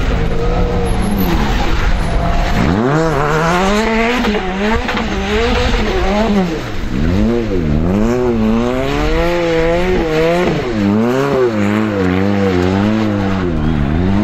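Rally car engine at full throttle on a stage. From about three seconds in, the revs climb and drop sharply over and over as the driver changes gear and lifts off for corners.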